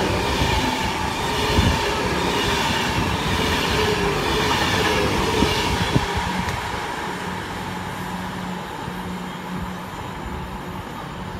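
Class 390 Pendolino electric train running past on the line, with a steady rumble, a held low hum and a few wheel clicks over the rail joints. It fades gradually over the second half.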